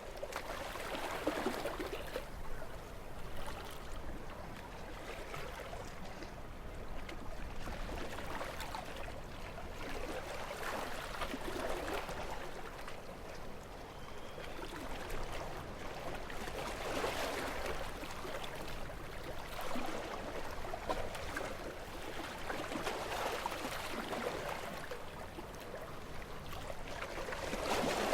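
Gentle sea waves washing onto a shore, a steady wash of water that swells and falls back every few seconds.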